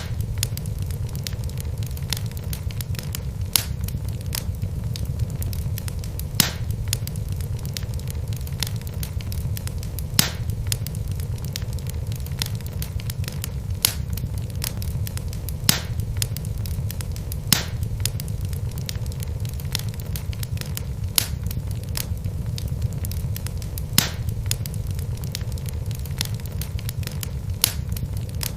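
Wood fire burning in a fireplace: a steady low rumble of the flames with sharp crackles and pops of the burning logs every second or two.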